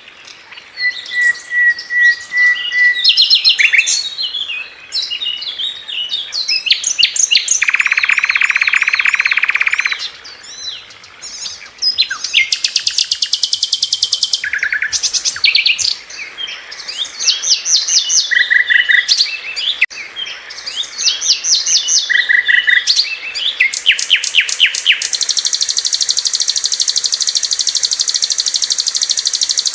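A sikatan londo flycatcher singing continuously in a varied song. Quick sloping whistled notes alternate with fast rattling trills, short runs of repeated notes, and a buzzy burst about 8 seconds in. The song ends on a long, fast trill near the end.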